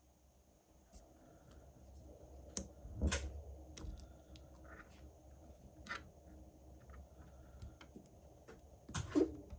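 Small sharp clicks and taps of hand tools such as tweezers handling the battery flex and parts on the repair bench, with a louder knock about three seconds in and another just before the end. A faint steady high-pitched whine runs underneath.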